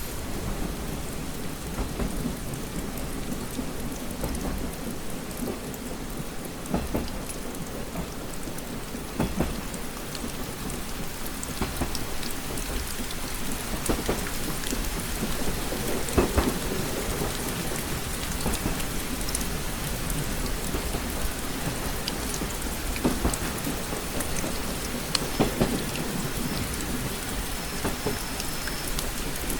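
Rain pattering on a train compartment window, with scattered sharper drop taps over a steady hiss and a steady low rumble underneath.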